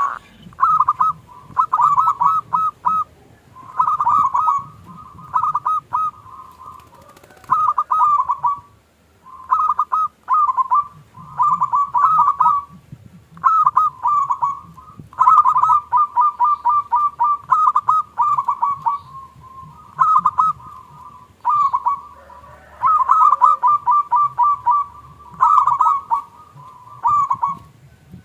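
Zebra doves (perkutut) cooing: short phrases of quick, staccato notes, repeated every second or two with brief pauses between them.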